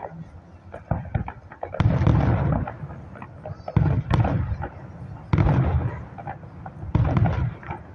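Fireworks display: aerial shells bursting in a string of loud deep booms about every one and a half to two seconds, with smaller crackling pops between them.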